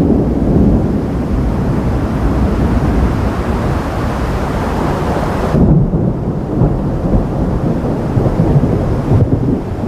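Thunder rumbling, long and continuous, with a hiss above the rumble that cuts out abruptly about halfway through.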